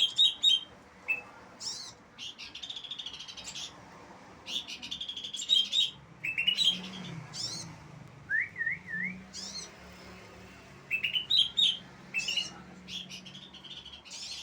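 Horsfield's babbler (pelanduk semak) singing vigorously: bursts of sharp chirps and rapid trilled phrases, with a wavy whistled phrase about halfway through.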